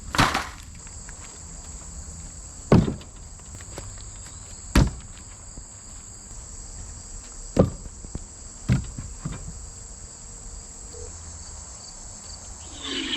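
Insects, crickets among them, keep up a steady high-pitched chirring. About five sharp knocks or clanks stand out at irregular intervals over the first nine seconds.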